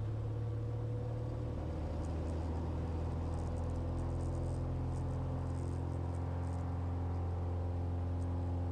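The Cessna 182 Skylane's Continental O-470 six-cylinder engine and propeller at full takeoff power, a steady drone during the takeoff roll. The pitch rises slightly in the first second or so and then holds.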